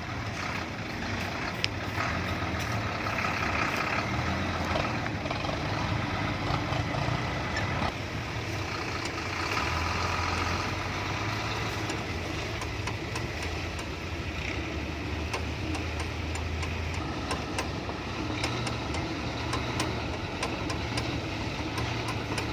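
Hino F18 ten-wheeler truck's diesel engine running slowly under a heavy load, with the power steering pump whining over it. The whine swells twice, about two and ten seconds in.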